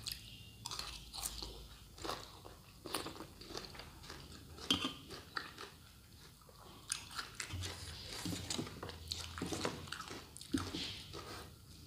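A person biting and chewing crisp shredded green mango salad, a run of short, irregular crunches.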